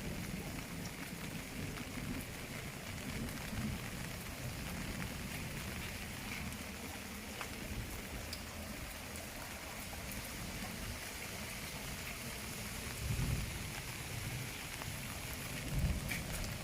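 Steady rain falling, an even hiss of drops on surfaces, with a couple of low thuds about thirteen and sixteen seconds in.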